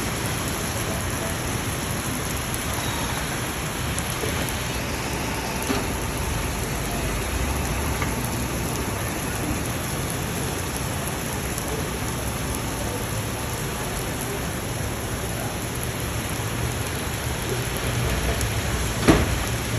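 Steady rain falling, with a low rumble underneath and one sharp click near the end.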